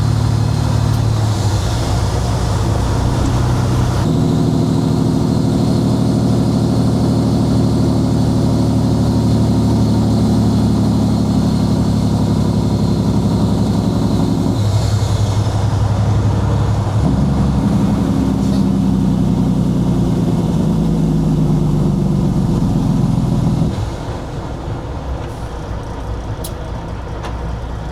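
Kenworth W900 semi truck's diesel engine running on the road, heard from the cab. Its note shifts in pitch several times and turns quieter near the end.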